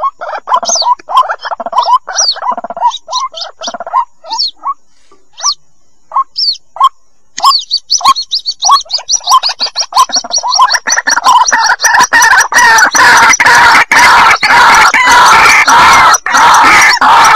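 White-breasted waterhen chicks calling, a bird lure recording. Short repeated peeps come at first, then a fast string of high notes from about seven seconds in, building into a dense, loud, continuous chorus from about ten seconds in.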